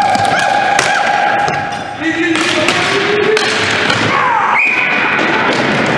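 Ball hockey play: shouting voices over sharp knocks and thuds of the ball and sticks, with a steady high tone held from near the end.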